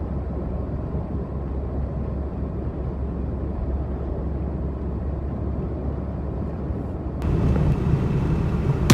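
Car road noise heard from inside a moving car: a steady low rumble of tyres and engine. Near the end it grows louder and brighter.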